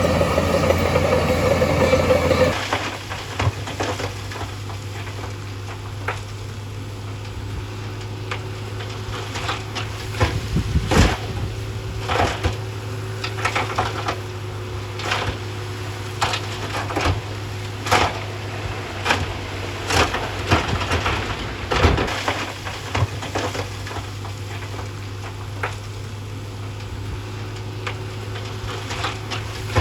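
Heavy earthmoving machine's diesel engine running loudly. It gives way suddenly to a steadier, quieter engine hum with scattered knocks and crunches of earth and rock.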